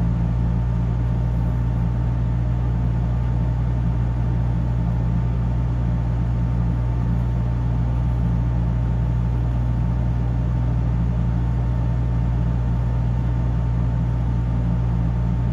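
Steady low drone of a ship's engines and machinery, with a thin steady whine above it.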